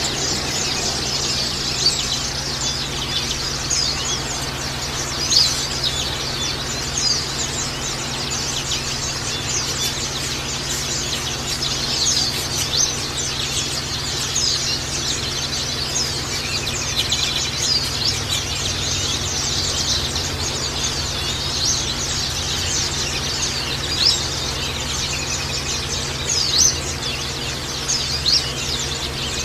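A flock of white-eyes chirping and twittering continuously, many short, thin, high calls overlapping one another.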